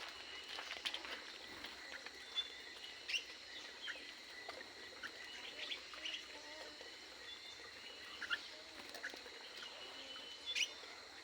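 Many small aviary birds chirping, short calls overlapping and scattered irregularly.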